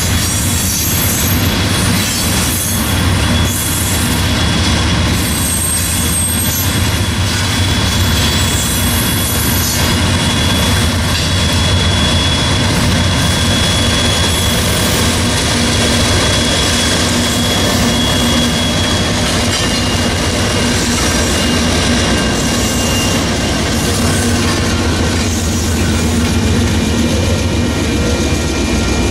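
Loaded coal train of hopper cars rolling by, with steady wheel rumble, clicking over rail joints and a thin wheel squeal. Union Pacific diesel locomotives run past about mid-way, adding a deep engine hum.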